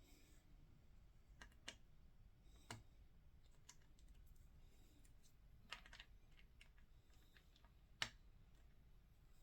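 Faint, scattered small clicks and taps as a scale model airliner's landing gear is pressed and fitted into place under the wing. The sharpest snap comes about eight seconds in.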